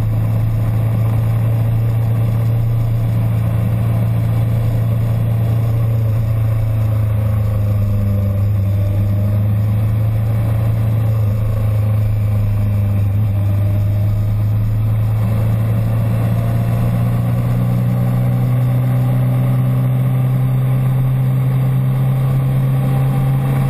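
Motorcycle engine running at steady revs, its pitch creeping up slightly near the end.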